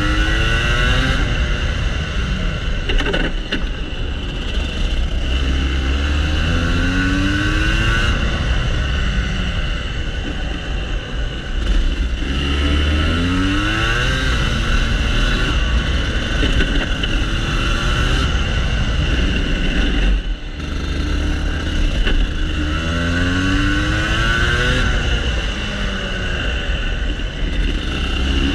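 Rotax Max Senior 125cc two-stroke kart engine running hard, its pitch climbing repeatedly under acceleration and falling away as the revs drop into corners, over and over through the lap.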